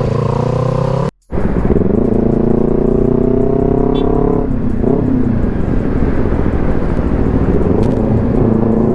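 Motorcycle engine accelerating, its pitch rising steadily for a few seconds, then easing off about four and a half seconds in to a steady run. The sound cuts out completely for a moment about a second in.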